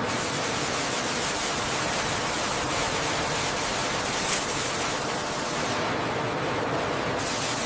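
Steady, even rushing hiss with no distinct tones, starting suddenly; the highest part of the hiss drops away for about a second near the end.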